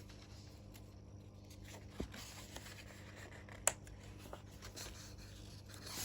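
Quiet room with faint rustling and a few small clicks, the sharpest one about three and a half seconds in.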